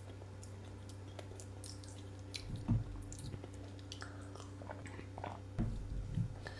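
A person chewing food close to the microphone: scattered small wet mouth clicks, with a few low thumps, the loudest about two and a half seconds in, over a steady low hum.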